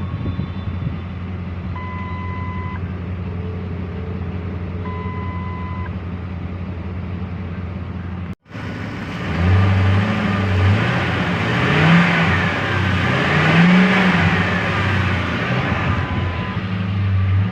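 Ford F-250 engine idling steadily after starting, with two one-second electronic beeps a few seconds apart. After a brief break in the audio the engine is revved up and down three times, louder.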